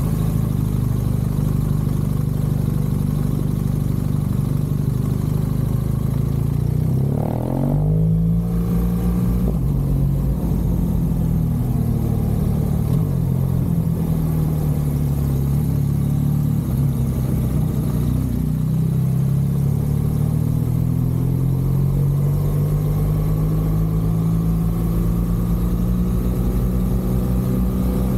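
BMW R1200 GS Adventure's boxer-twin engine running under way at low road speed. The revs climb sharply and drop about seven seconds in, ease off again later, then build slowly near the end.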